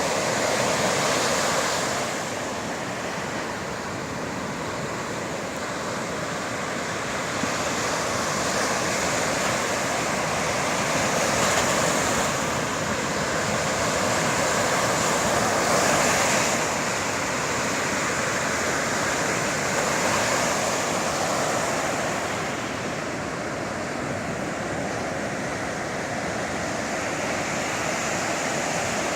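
Sea waves breaking on the shore, the surf hiss swelling and easing in slow surges every few seconds.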